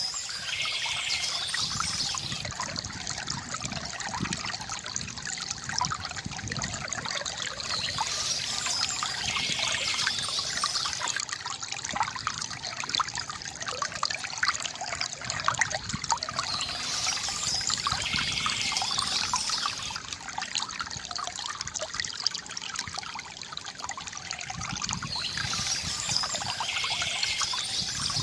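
Water from a bamboo fountain trickling and splashing steadily, with a brighter hiss coming back about every eight or nine seconds.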